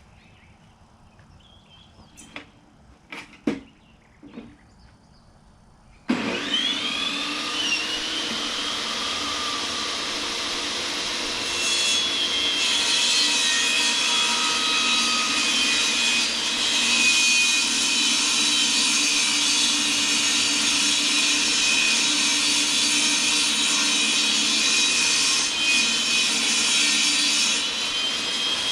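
A few light knocks, then about six seconds in an electric power saw starts suddenly, its whine rising as the motor spins up, and runs steadily cutting wood. It gets a little louder about twelve seconds in.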